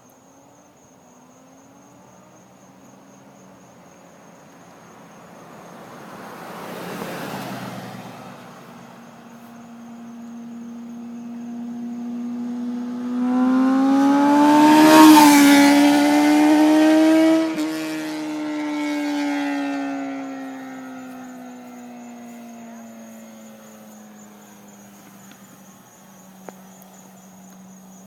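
Kawasaki ZX-6R 636 inline-four sport bike with a Jardine aftermarket exhaust doing a flyby: the engine note rises in pitch and grows louder as it approaches, is loudest about 15 seconds in as it passes, then falls in pitch and fades as it rides away. A brief rushing noise comes about seven seconds in.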